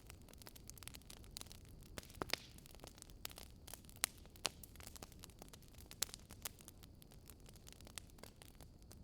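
Wood fire crackling faintly: irregular sharp pops and snaps over a low steady hiss, with a few louder pops scattered through.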